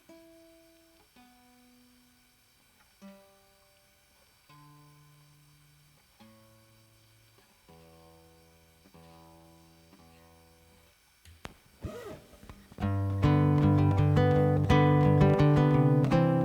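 Acoustic guitar being tuning-checked: single open strings plucked one at a time and left to ring, going down from the higher strings to the low bass string, which is plucked twice. A few light clicks follow, then loud full strumming begins about thirteen seconds in as the song starts.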